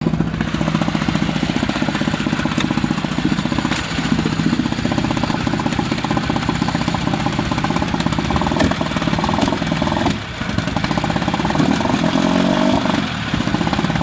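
Evinrude Fastwin 18 hp two-cylinder two-stroke outboard motor running steadily, with a brief dip in level about ten seconds in and a short change in pitch soon after.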